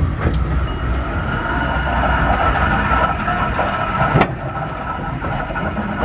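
Bure Valley Railway miniature train running, heard from the carriage: a steady rumble of the wheels on the rails with a high wheel squeal over it, and one sharp knock about four seconds in.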